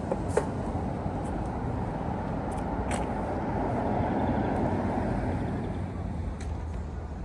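City street traffic: a steady rush of road vehicles that swells as one passes near the middle, with a few sharp clicks.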